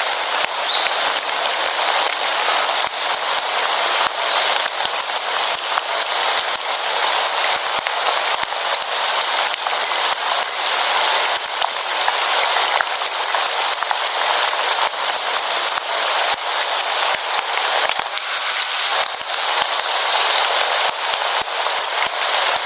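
Rain falling steadily: a dense hiss dotted with many sharp drop impacts on a hard surface.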